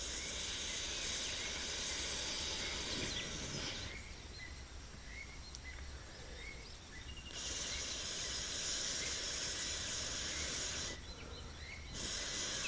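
Outdoor ambience: a steady hiss with faint, repeated small chirps. It cuts out abruptly about four seconds in, comes back about seven seconds in, and drops out briefly again near the end.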